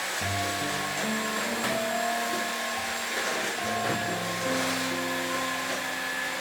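Vacuum cleaner running steadily with a continuous whooshing hiss, under soft background music of slow, held notes.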